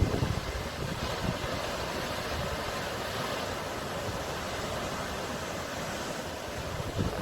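Sea waves washing on the shore as a steady rushing noise, with a louder low surge right at the start and another near the end.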